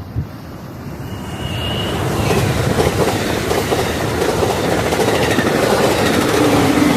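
Passenger train passing close by, growing louder over the first two seconds, its wheels clacking rapidly over rail joints, with a brief high squeal about a second and a half in.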